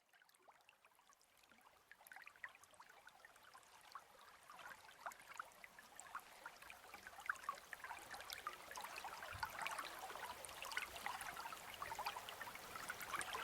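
Trickling, babbling stream water with many small splashes, fading in from silence and growing steadily louder.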